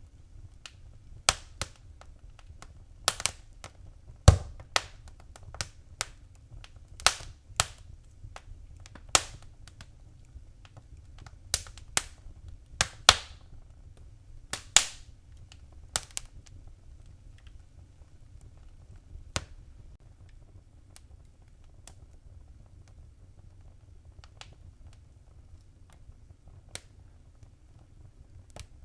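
Wood fire crackling in a fireplace: sharp, irregular pops and snaps, thick in the first half and sparser later, over a faint low rumble of the burning fire.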